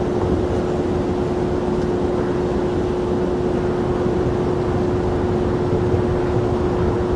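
Jet airliner engines running steadily: a rumble with one unchanging hum, no rise or fall in pitch.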